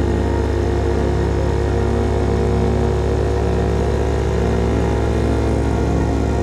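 CFMOTO Papio SS motorcycle's small single-cylinder engine running through an aftermarket KO Lightning slip-on exhaust, held at steady revs with a deep, even exhaust note.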